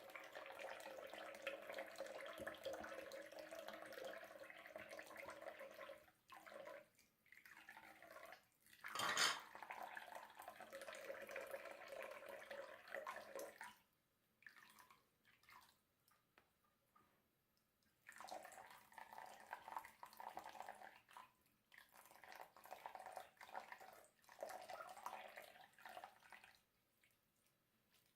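Tap water running into a basin in long stretches, stopping and starting several times, as a doll's hair is washed under it. A single sharp knock about nine seconds in.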